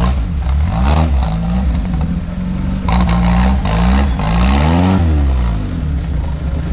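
Off-road vehicle's engine revving up and down repeatedly under load as it works through wet ground. There is a burst of rushing noise about three seconds in.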